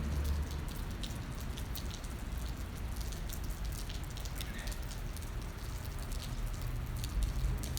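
Rain falling steadily, with many individual drops clicking sharply over a constant hiss.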